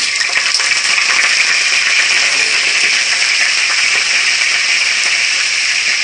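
Freshly added chicken livers and garlic frying in a hot pot: a loud, steady sizzle.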